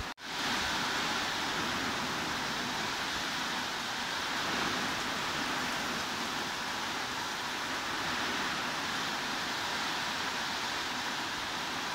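Steady heavy rain playing as a continuous, even hiss. It cuts out for a split second at the very start, then fades back in, the mark of a splice in the looped track.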